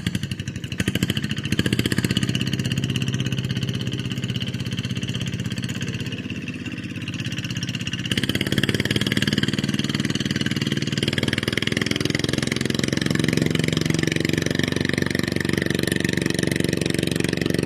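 A small engine starts up and runs steadily, getting louder about eight seconds in.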